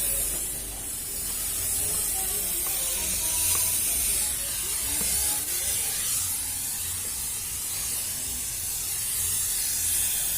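Thermal fogging machine running, a steady hiss of fog being sprayed with a low drone underneath.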